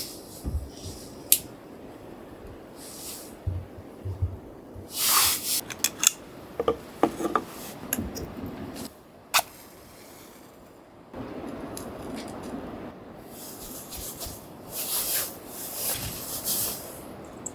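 Objects being handled at close range: scattered sharp clicks and rustling, with a few short hissing swishes about five seconds in and again near the end.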